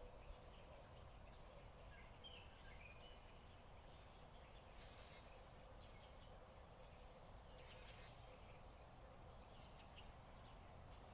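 Faint outdoor ambience: a steady low rumble with scattered faint bird chirps, and two short hissy bursts about five and eight seconds in.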